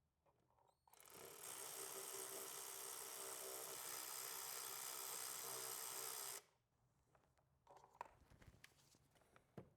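A small handheld power tool runs steadily with a whir for about five seconds, then stops abruptly, followed by a few light clicks of work on parts.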